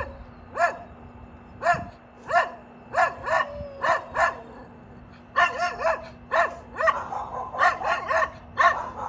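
A dog barking repeatedly, short single barks coming in irregular runs with a brief pause about halfway through.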